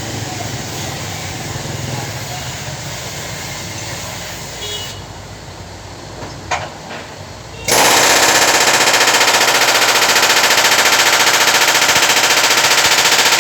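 Steady workshop noise, then a few seconds in a pneumatic tool starts up suddenly and loud, hammering in a fast, even rattle on car body metal.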